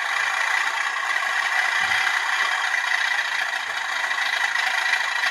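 Hornby TTS sound decoder in a model Class 37 locomotive playing its 'thrash' sound through the loco's small speaker: a recorded English Electric diesel engine working hard at full power, steady and thin, with little bass.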